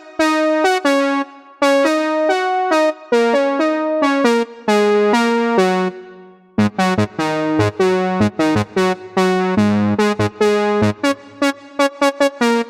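Roland System 8 synthesizer playing a factory preset with an electric-piano-like tone: a run of notes and chords that start sharply and die away quickly. After a short pause about halfway through, lower bass notes join in, and the notes come faster near the end.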